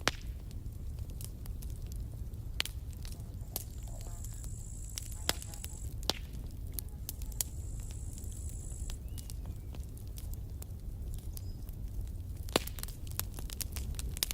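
Campfire burning, a steady low rumble of the flames with sharp wood pops and crackles scattered through, the crackling growing denser near the end.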